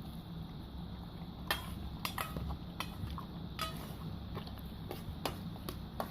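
Irregular sharp clicks and light knocks, about seven in six seconds, over a steady low hum.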